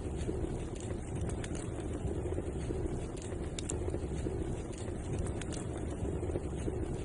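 Wood fire burning in a fireplace: a steady low rumble with a few sharp crackles and pops scattered through it.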